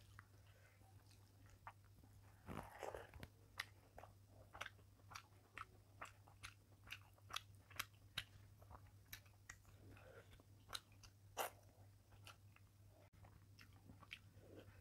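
Close-miked chewing of fish and rice: a run of sharp, wet mouth clicks and crunches at about two a second, over a faint steady low hum.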